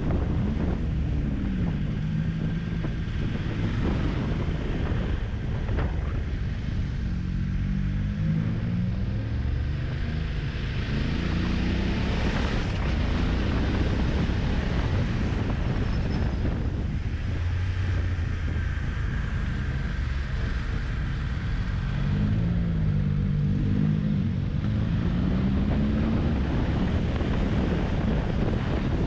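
Motorcycle engine revving up and down as it climbs, its pitch rising and falling several times, under heavy wind noise on the microphone.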